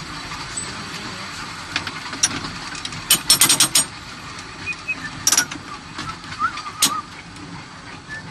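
An electric tram running with a steady rumble, and sharp metallic clicks and knocks over it, including a quick rattling run of them about three seconds in.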